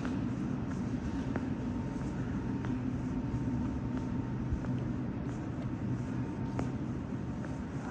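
Metro train running steadily between stations, heard from inside the carriage: a continuous low rumble with a faint steady whine and a few light clicks.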